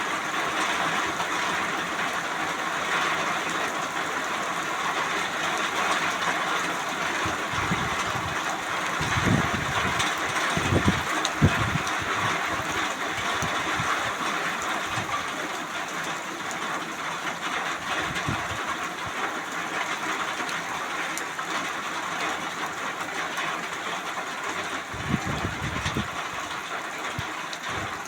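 Heavy rain falling in a steady, dense hiss, with a few brief low rumbles near the middle and again near the end.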